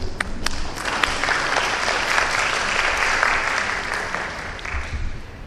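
Conference audience applauding: a few scattered claps swell into general applause, which fades away near the end.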